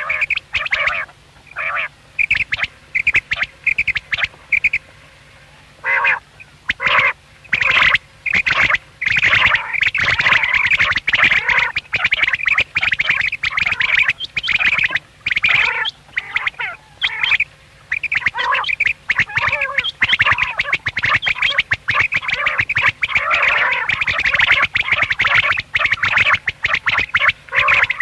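Common quails calling, many short repeated calls overlapping from more than one bird. The calls come in spaced bursts at first, then run together into a dense, continuous chorus from about nine seconds in.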